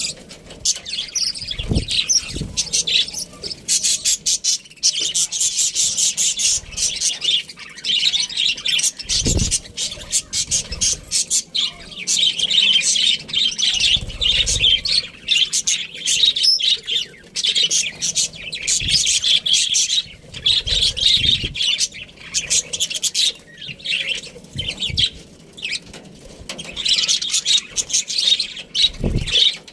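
Pet budgerigars chirping and chattering in a fast, continuous stream of high twitters with brief pauses. A few short low thumps are mixed in.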